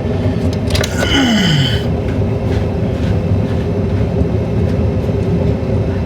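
Steady low rumble of a running vehicle or machine. About a second in comes a brief squeak with a low falling tone.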